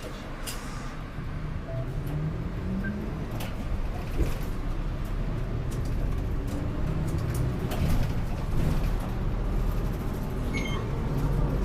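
Inside a city route bus pulling away from a stop: the engine note rises as the bus accelerates, over a steady low rumble with scattered rattles and clicks from the cabin.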